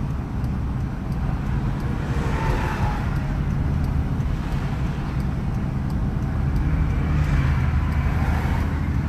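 Engine of a farm sprayer driving along a road, a steady low drone, with two swells of road noise about two and seven seconds in.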